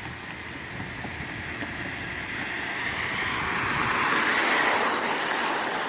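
A car passing on a nearby road: tyre and road noise swelling to its loudest about four and a half seconds in, then easing off.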